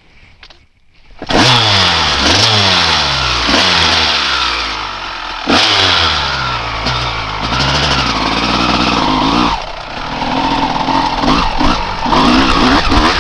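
1995 Honda CR250R's single-cylinder two-stroke engine, loud from about a second in, revving up and down over and over as the bike is ridden hard.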